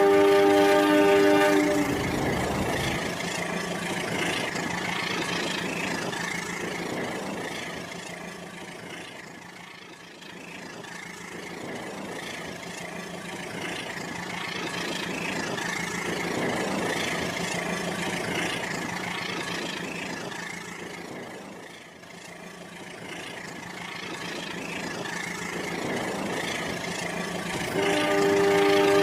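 Battery-powered toy train's electronic horn sounding for a moment, then the train running on its plastic track, its motor and wheels growing fainter and louder again as it circles the loop twice. The horn sounds again near the end.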